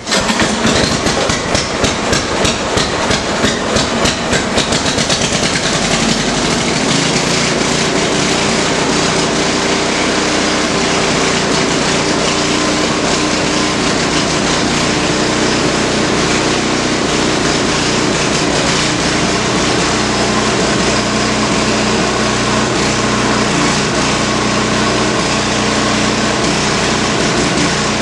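A 1970 Montgomery Ward snowblower's 8-horsepower Briggs & Stratton engine catches on the first pull from a cold start. It runs unevenly for the first few seconds, then settles into a steady run at its governed speed.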